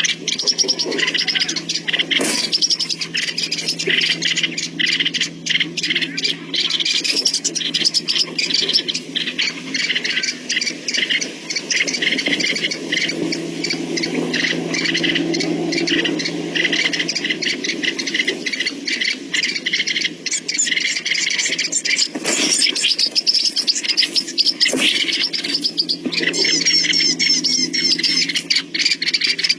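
Small bird calling without a break: rapid, sharp chirps repeated many times a second, over a steady low hum.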